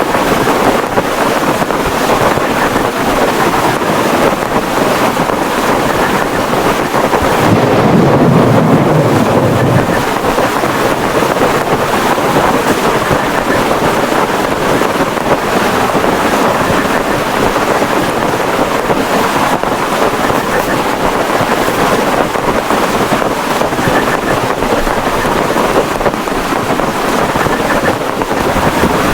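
Heavy rain falling hard and steadily on a plastic tarpaulin, with wind buffeting. About a quarter of the way in, a low rumble swells for roughly two seconds.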